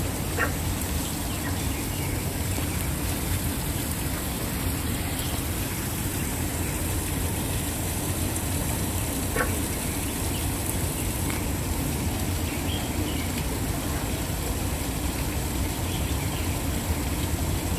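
Waterfall rushing steadily, a continuous full roar of falling water, with a couple of brief faint higher sounds over it.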